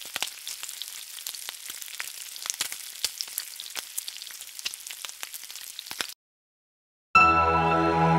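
Food frying in hot oil, a dense sizzle full of fine crackles and pops, which cuts off suddenly about six seconds in. After a second of silence, music starts.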